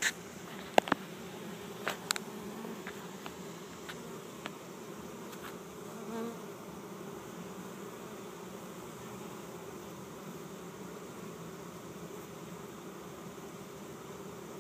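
Honeybee swarm buzzing as a steady low hum as the bees crowd into a hive box. A few sharp clicks come in the first couple of seconds.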